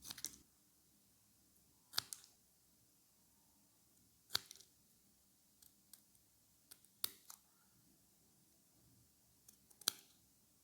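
Short sharp clicks or snips, about five of them a couple of seconds apart, some coming as quick doubles.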